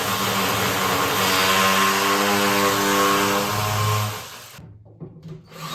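A power tool runs loudly and steadily, then cuts off about four seconds in.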